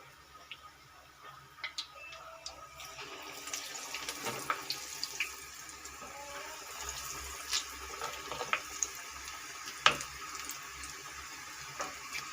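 Spoonfuls of gram-flour and spinach batter frying in hot oil: a sizzling hiss that swells about three seconds in and then holds steady, with scattered crackles and sharp pops.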